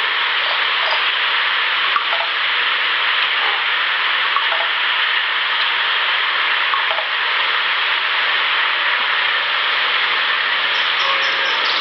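Steady loud hissing noise with a faint low hum underneath, unchanging throughout.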